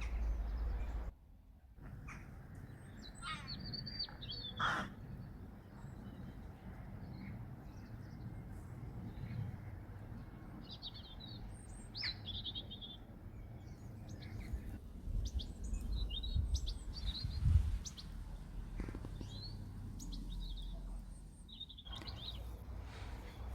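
Small birds chirping in short scattered calls and quick trills, over a steady low rumble. A dull low bump about three-quarters of the way through is the loudest moment.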